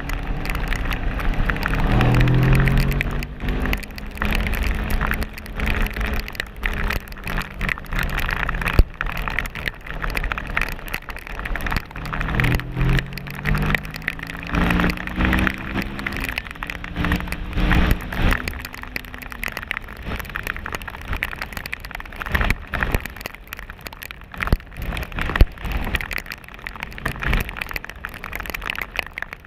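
Kawasaki ER-6n 650cc parallel-twin engine accelerating hard twice, its pitch climbing in steps as it shifts up through the gears, under a constant hiss of rain and wind noise buffeting the helmet-mounted camera.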